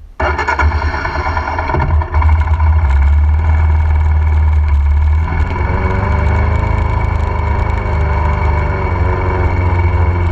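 Royal Enfield Himalayan's single-cylinder engine running under way, a steady deep throb whose pitch rises and falls a little in the second half as the road speed changes.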